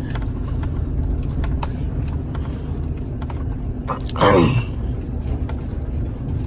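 Steady low rumble of a moving vehicle, heard from inside, with a few light ticks and rattles. About four seconds in, a short voice-like sound falls in pitch.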